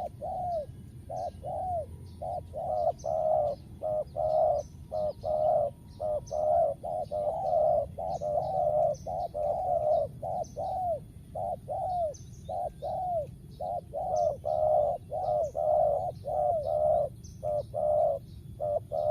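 Spotted doves cooing over and over, a fast run of short arching coos that overlap at times as if from more than one bird. Short high chirps from a smaller bird sound above them.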